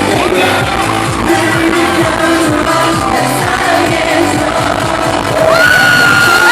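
Loud amplified K-pop played live by a band with singing over a steady drum beat, recorded from within the audience. Near the end, a high held voice rises over the music.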